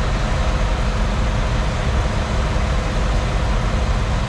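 Semi truck's engine and road noise heard from inside the cab while driving at speed: a steady low drone with no changes.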